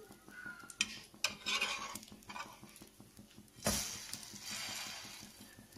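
An egg-dipped bread sandwich frying in oil in a nonstick pan, sizzling, while a metal spatula scrapes and taps against the pan as it presses the sandwich down. One louder knock comes about three and a half seconds in, followed by a hiss of sizzling that fades.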